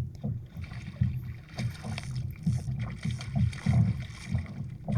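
Kayak on the water: low, uneven rumbling of water moving against the hull, with a few faint splashes and knocks.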